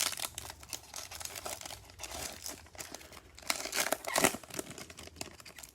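Foil wrapper of a football trading card pack crinkling and tearing open, with the cards handled. The crackling is loudest about three and a half to four seconds in.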